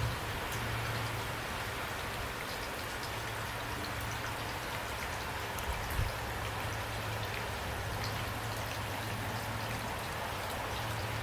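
Steady rain falling, with faint individual drops ticking through an even hiss. A steady low hum runs underneath, and a soft low thump comes about six seconds in.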